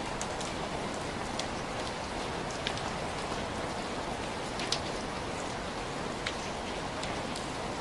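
Heavy rain falling steadily, a dense even hiss with scattered individual drops ticking sharply on a surface.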